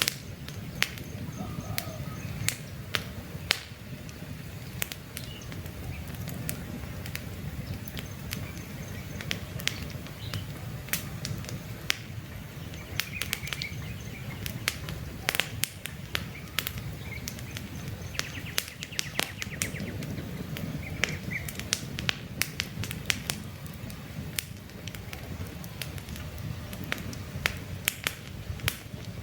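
Campfire crackling, with many sharp pops and snaps over a steady low rumble of burning wood. Short bird chirps are heard now and then in the background.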